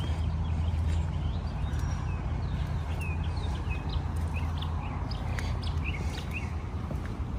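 Birds chirping in quick, short notes, over a steady low hum that is loudest through the first few seconds and then eases.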